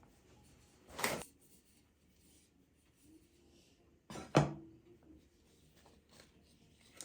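Two sounds of household items being handled: a short clack about a second in, then a louder knock with a brief ring a little after four seconds, like a dish or cupboard door being set or closed.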